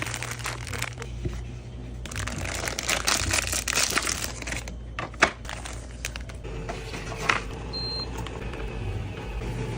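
Crinkling and rustling of packaging, with a few sharp clicks around the middle; a faint steady hum comes in about two-thirds of the way through.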